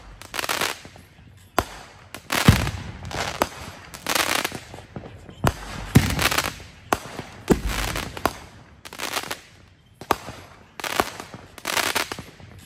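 Consumer aerial fireworks launching and bursting: a run of about a dozen sharp bangs, roughly one a second, many followed by a half-second hiss.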